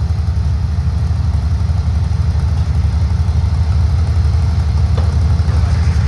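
Vehicle engine running steadily, with a deep, even low hum.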